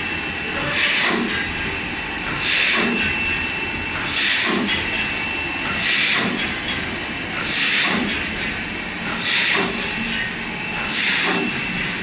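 Multi-line sachet packing machine running in steady cycles: a burst of hiss repeats about every 1.7 seconds over a constant mechanical hum with a faint high whine.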